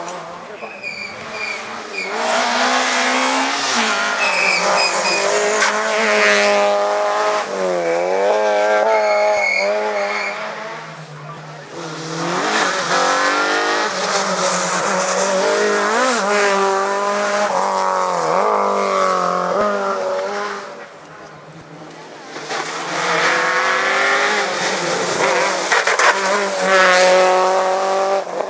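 Rally cars driven hard on a stage: engines rev high and drop back again and again through gear changes, with short high squeals. There are several loud passes, with quieter gaps about 11 and 21 seconds in.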